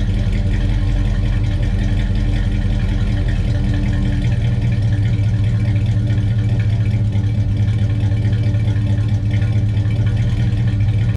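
Chevelle's engine running steadily at idle through a new true-dual 2.5-inch exhaust with single-chamber mufflers, a mufflers' sound the owner describes as having a tin can sound.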